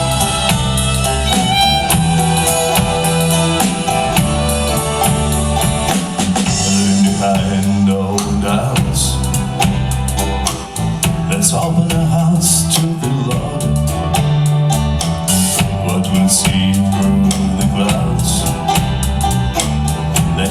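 Live indie-folk band playing a song: a strong, moving bass line under guitar, drums and tambourine, with the percussion growing busier about halfway through.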